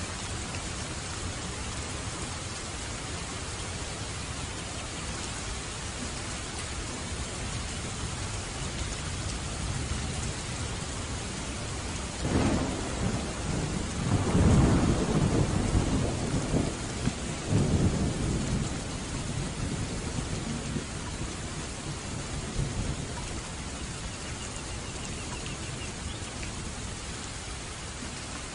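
Steady heavy rain with a peal of thunder: a sharp crack about twelve seconds in, then a rolling rumble lasting several seconds that fades back into the rain.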